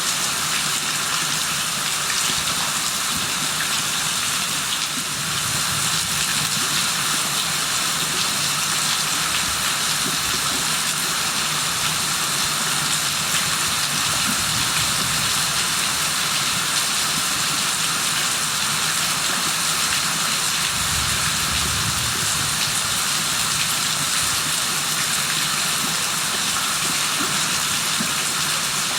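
Steady heavy rain falling, an even rushing hiss.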